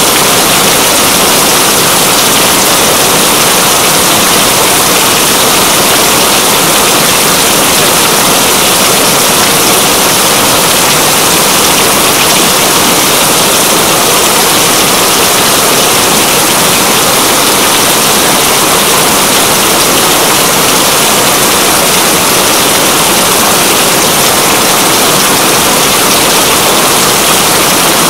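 Steady, dense rainfall making a loud, even hiss that does not change.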